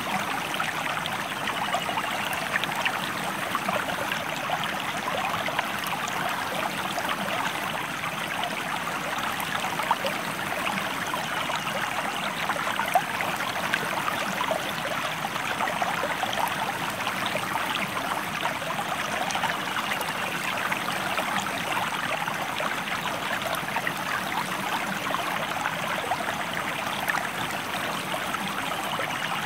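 Stream water flowing over rocks: a steady rush with many small splashes and gurgles running through it.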